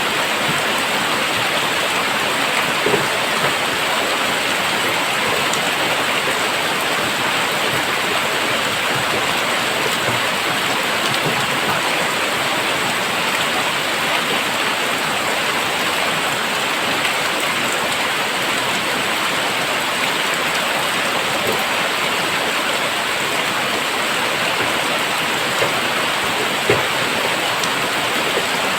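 Very heavy rain falling steadily, a dense even hiss of downpour with a few louder single drop hits about three seconds in and again near the end.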